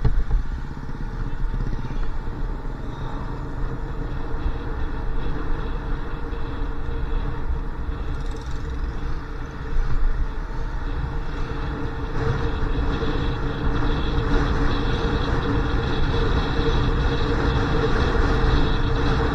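Motorcycle engine running steadily while riding, with wind rushing over the microphone. The engine note and overall level rise a little partway through.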